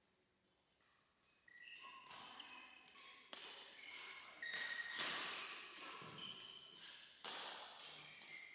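Badminton rally in an echoing hall: about four sharp racket strikes on the shuttlecock, each ringing out in the room, with short high squeaks of court shoes between them.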